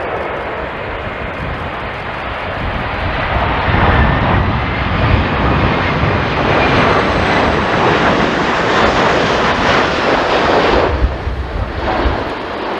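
Jet airliner's engines passing close by, growing louder over the first few seconds and holding loud, then dropping off sharply about a second before the end.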